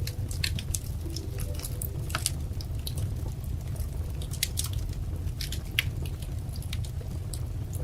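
Wood fire crackling: irregular sharp pops and snaps, several a second, over a steady low rumble of burning logs.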